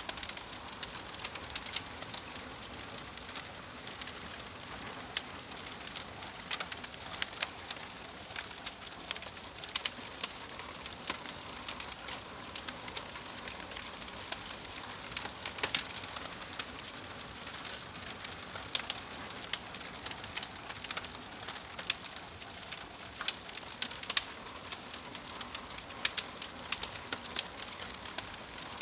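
Fire crackling: a steady hiss with irregular sharp pops and snaps, several a second.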